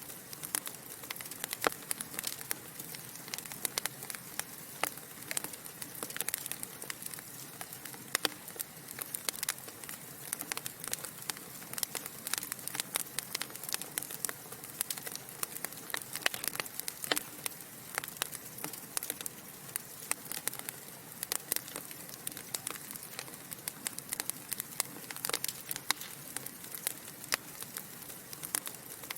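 Wood fire burning in a fireplace, logs crackling with frequent irregular sharp pops and snaps over a soft steady hiss.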